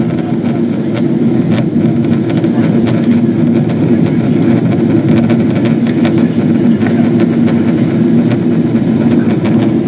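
Boeing 777-200ER cabin noise on the approach: the steady low rumble of the engines and airflow, with a few faint ticks scattered through it.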